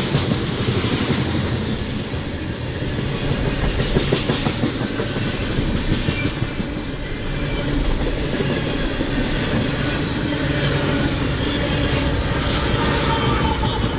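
Freight train cars rolling steadily past, wheels clicking over the rail joints.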